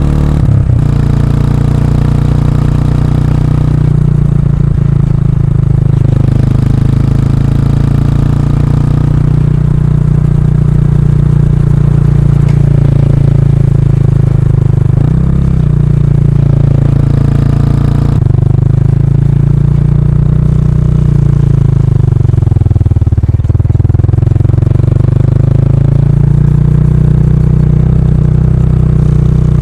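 Kawasaki Estrella's 250 cc air-cooled single-cylinder engine running through a stock muffler with its baffle removed, the pitch rising under throttle and dropping back again and again as the bike is ridden through the gears.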